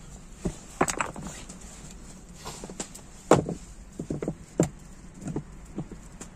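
A series of irregular hard knocks and clacks, about a dozen, unevenly spaced, the loudest a little past three seconds in.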